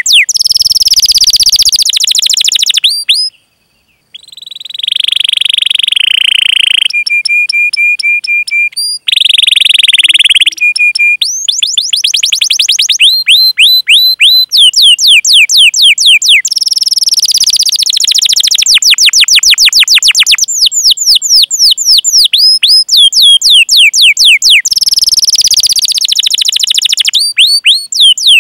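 Canary singing a long, loud song: runs of fast repeated descending chirps ("cuit cuit") and rolling trills, with a brief break about three to four seconds in and a fast steady-pitched trill around the middle.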